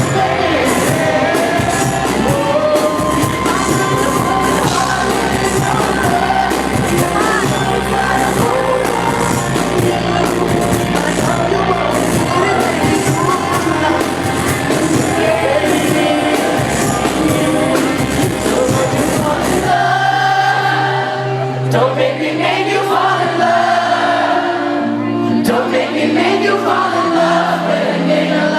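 Live concert music: a male singer with his band, drums and bass driving a steady beat under the vocals. About twenty seconds in, the drums drop out, leaving held keyboard notes and the voice.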